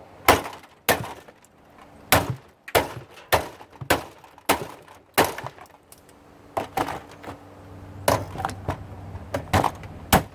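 Hammer blows on a dishwasher being stripped for scrap: about fifteen sharp strikes at an uneven pace, one or two a second, some coming in quick pairs.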